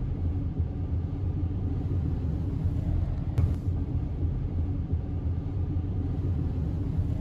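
Steady low rumble of a car driving, with a single light click about three and a half seconds in.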